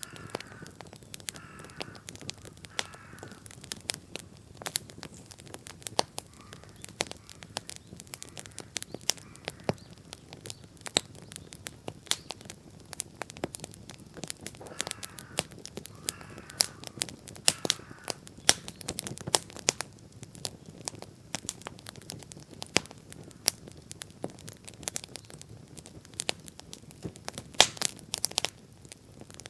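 Wood bonfire crackling, with frequent sharp pops and snaps over a low steady rush of flame. A bird calls in short series near the start and again about halfway through.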